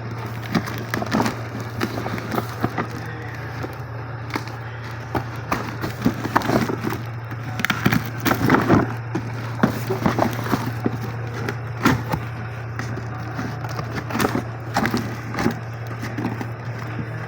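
Irregular knocks, clicks and rustles of cosmetic racks and their packaging being handled during unboxing, over a steady low hum.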